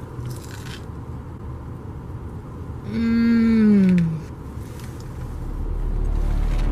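A person's drawn-out vocal groan, held for about a second and then falling in pitch, about three seconds in. Low, deep music swells in near the end.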